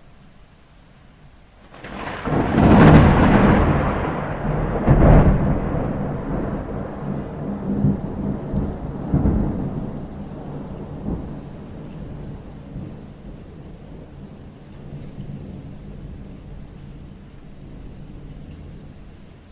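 Thunder during a rainstorm: a sudden clap about two seconds in, a second crack a couple of seconds later, then a long rumble that fades away, with steady rain falling underneath.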